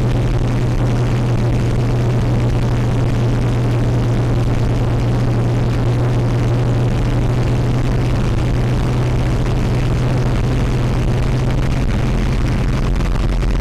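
REO vehicle running steadily under way, heard on board as a constant engine and road drone with a strong low hum.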